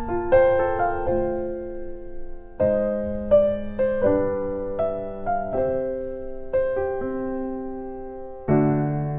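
Background music: a gentle solo piano or electric piano playing slow chords with a melody, each note struck and left to ring.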